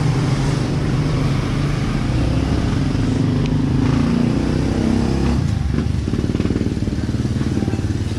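A motorcycle engine idling steadily, with a couple of faint clicks from metal parts being handled.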